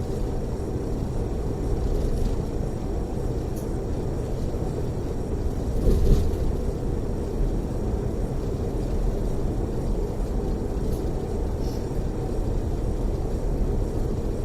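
Steady road and engine rumble inside a moving coach's passenger cabin, with a brief louder bump about six seconds in.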